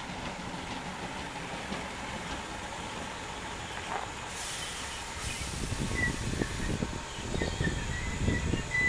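Class 313 electric multiple unit running into the platform, its rumble growing louder as it comes close. About four seconds in there is a burst of air hiss lasting a couple of seconds, and from about six seconds on a thin high squeal comes and goes.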